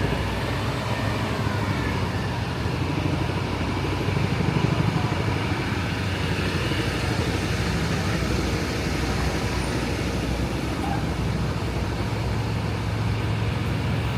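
City street traffic: motor vehicles passing in a steady rumble, with faint voices.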